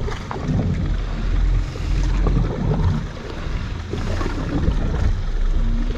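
Wind buffeting the microphone aboard a small boat at sea: a low, uneven rumble that rises and falls.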